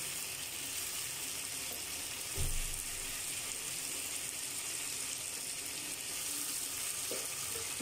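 Pabda fish and potatoes sizzling steadily in hot oil and spice masala in a nonstick wok as they are stirred and turned with a plastic spatula. A dull thump about two and a half seconds in.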